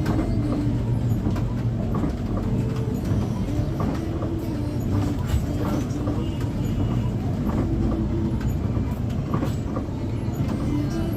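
Cabin noise of a moving intercity bus: a steady engine and road rumble with scattered light rattles and clicks.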